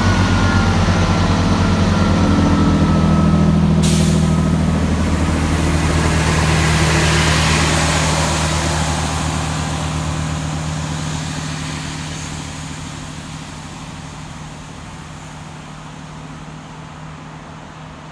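Class 165 diesel multiple unit pulling away, its diesel engines running with a steady low drone that fades as the train moves off. About four seconds in there is a sudden hiss of air, and a faint falling whine sounds in the first few seconds.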